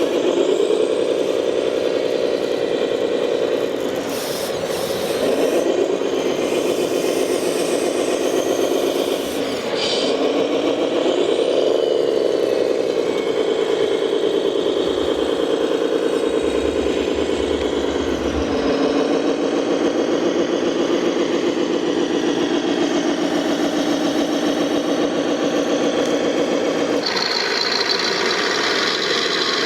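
Radio-controlled model truck engine sound, rising and falling in pitch several times as it revs, then settling to a steadier run. Near the end a higher, hissing band joins it.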